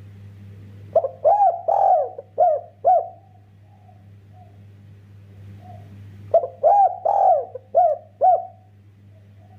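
Spotted dove (derkuku) cooing: two phrases of about five arched coo notes each, about five seconds apart. Fainter coos sound between them over a steady low hum.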